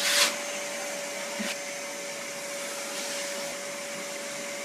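A household appliance motor running steadily: an even rushing of air with a constant hum, with a short louder burst at the start.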